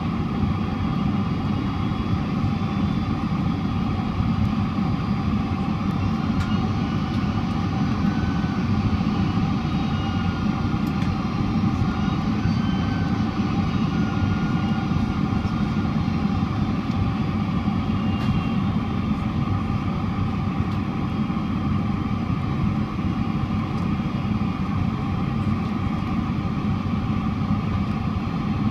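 Steady cabin noise of a Boeing 767-400ER: a constant jet-engine drone and rushing air, with a few faint steady whining tones running through it and no marked change in level.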